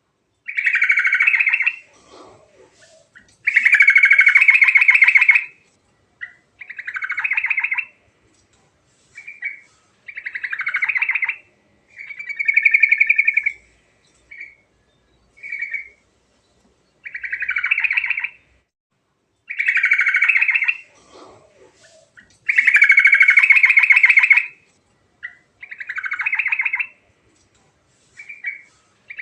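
Yellow-vented bulbul singing in repeated short phrases of about one to two seconds, each a fast pulsed warble, with brief pauses between them.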